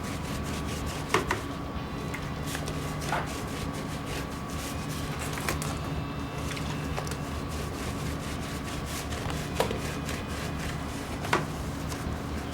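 A few light, sharp knocks and taps, spaced out, as air-conditioner parts are handled and brushed with cleaner, over a steady low hum.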